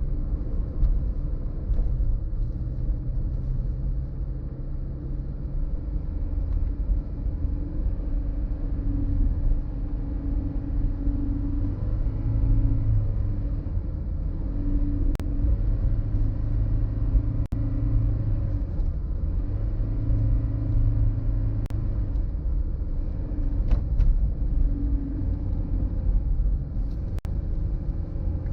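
A car driving, heard as a low rumble of engine and road noise. The engine note rises and falls in strength every few seconds, and a handful of sharp clicks come through in the second half.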